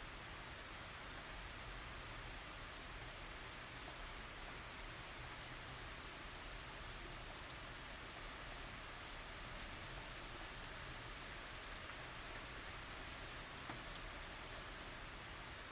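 Steady rain falling, with a few faint drop ticks scattered through.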